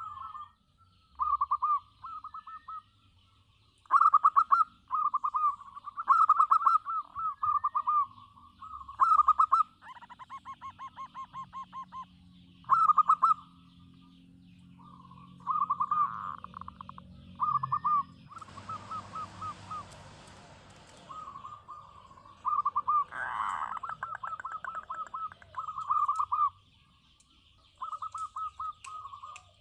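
Zebra dove (perkutut) singing over and over: short phrases of quick, pulsed cooing notes, with brief pauses between them. Faint chirps of small birds sit above it, and a stretch of hiss about two-thirds of the way through.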